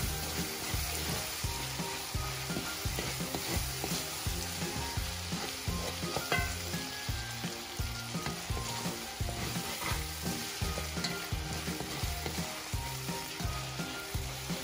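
Shrimp and diced carrots and bell peppers sizzling as they fry in an aluminium pot, stirred and scraped with a wooden spatula. Background music with a repeating bass line plays underneath.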